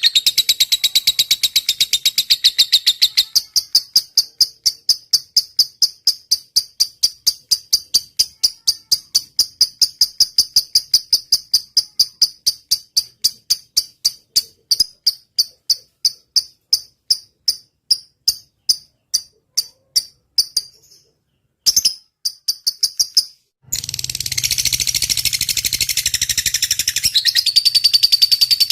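Lovebird singing a long run of rapid, evenly spaced high chirps, about four a second: the 'ngetik' ticking song. The run breaks off briefly about two-thirds through. It then turns into dense continuous chatter over a low hum near the end.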